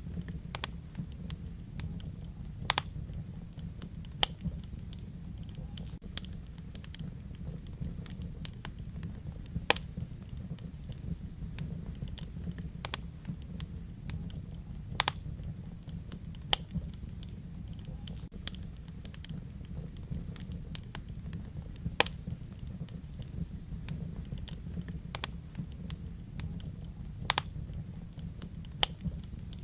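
Wood fire burning in a fireplace: a steady low rumble of flames with irregular crackling and a dozen or so sharper pops.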